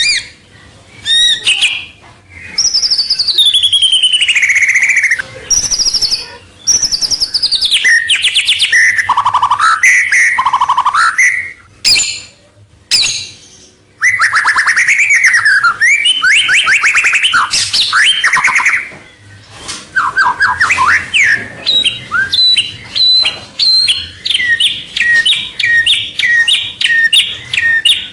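White-rumped shama singing loudly: a varied song of whistled glides and rapid trills, ending in a long run of short repeated notes, about two a second.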